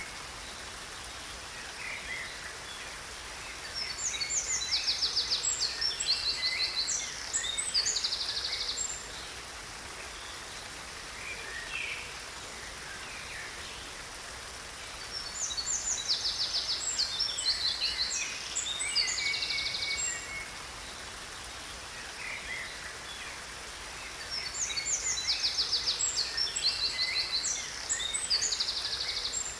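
A songbird sings in three bouts of about five seconds each, full of quick high trills, with a few short chirps between them. Beneath it runs the steady rush of a waterfall.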